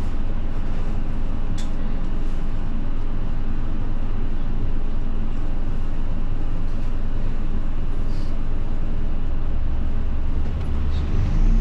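Inside a moving route bus: a steady low engine drone and road noise.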